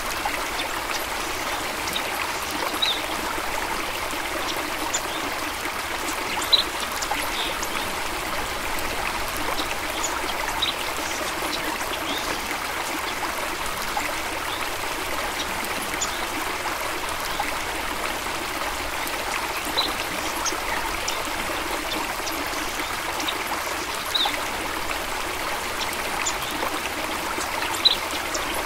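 Small stream running over stones, a steady rushing babble with frequent small bright trickles and splashes.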